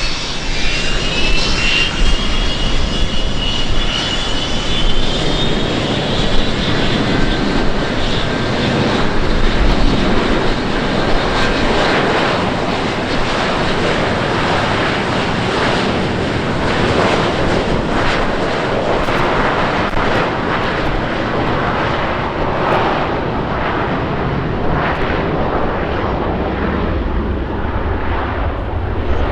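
An airplane passing close by: several high engine whines slide down in pitch over the first few seconds, then a loud, steady engine roar that slowly dulls toward the end.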